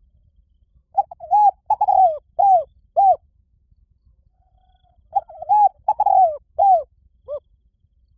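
Spotted dove cooing: two phrases of four or five low coos each, about two seconds apart.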